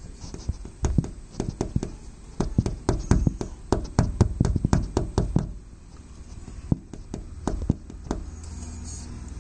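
A bird pecking at a window pane: rapid, irregular taps on the glass in quick runs, with a short pause about two-thirds of the way through before a few more taps.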